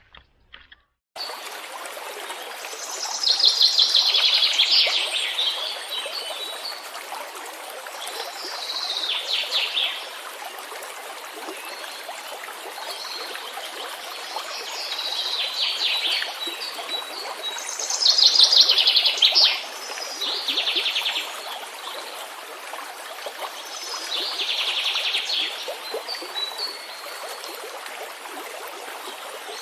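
A songbird singing short, rapid trilled phrases, repeated every few seconds, over a steady rush of running water. The sound starts abruptly about a second in.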